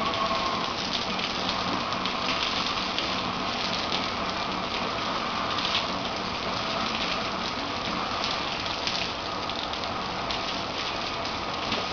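Water spraying steadily, a continuous hiss with light pattering like rain drumming on a surface.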